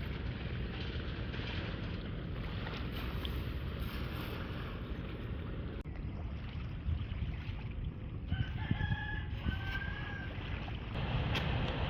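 A rooster crows about eight seconds in, a drawn-out pitched call followed by a short tail, over steady low background noise.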